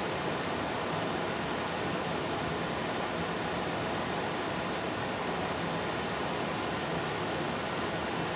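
Steady, even rushing background noise that does not change.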